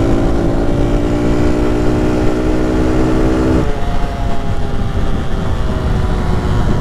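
Lifan KP motorcycle engine running under way, with low wind rumble. Its steady note sags slightly, then drops off about three and a half seconds in as the throttle eases, leaving a fainter engine note.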